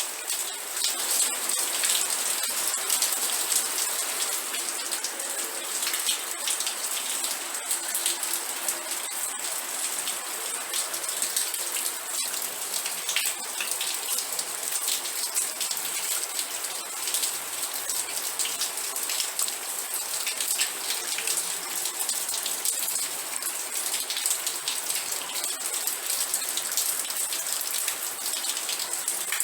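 Steady rain falling, a dense patter of drops striking a surface with a bright, crackling hiss.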